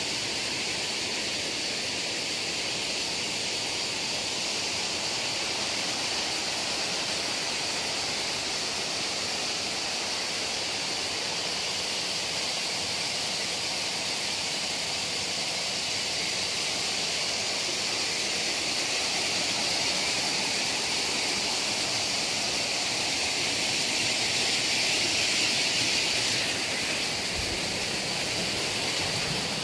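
Waterfall rushing: a steady, hissing roar of falling water that swells a little and eases slightly near the end.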